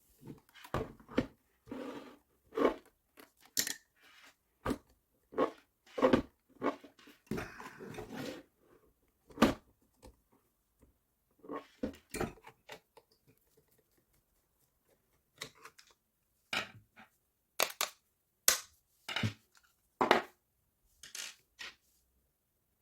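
Irregular clicks, knocks and scrapes of plastic parts of an electric fan being handled and taken apart, with short pauses between them.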